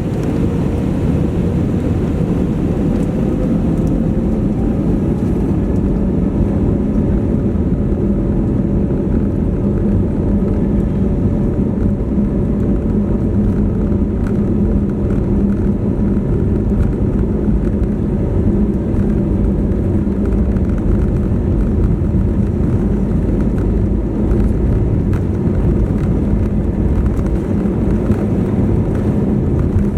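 Cabin sound of an Airbus A320neo on its takeoff run: the Pratt & Whitney PW1100G geared turbofans at takeoff thrust, with a steady engine tone that climbs slightly in the first couple of seconds as they spool up, over a loud, even rumble.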